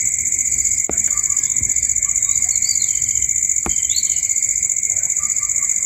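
Steady, high-pitched insect chorus trilling throughout, with a few short bird chirps partway through and two sharp clicks.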